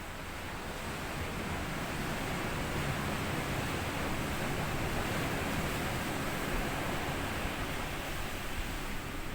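Sea waves breaking and washing up a sandy beach. The rush of surf builds over the first couple of seconds and eases slightly near the end.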